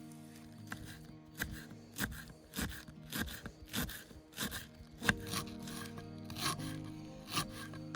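A knife sawing through a crusty bread loaf in regular strokes, about one and a half a second, over background music.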